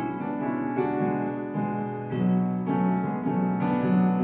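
Piano playing a slow accompaniment of chords between the sung lines of a song, a new chord roughly every second.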